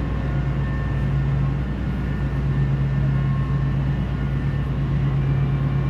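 Passenger ferry's engines droning steadily, a constant low hum with a few faint steady tones above it.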